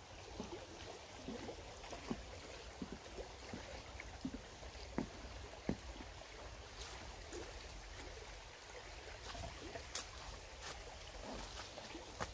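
A river flowing steadily, with scattered irregular footsteps on a slippery forest path and steps.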